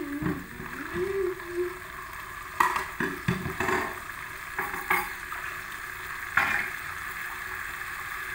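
Blended spice paste sizzling steadily in hot oil in a wok, with a few sharp clicks and knocks scattered through it.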